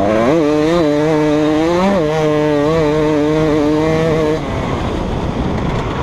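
2015 KTM 250 SX single-cylinder two-stroke motocross engine running on the throttle, its revs rising and dipping repeatedly with two quick rises near the start. About four seconds in the engine note drops away, leaving a rough rumble.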